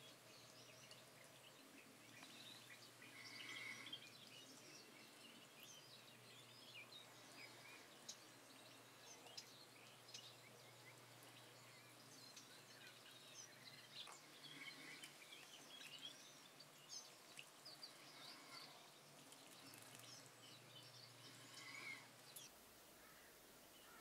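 Faint, scattered high chirps and short calls of small birds over a soft background hiss and a low steady hum, which stops near the end.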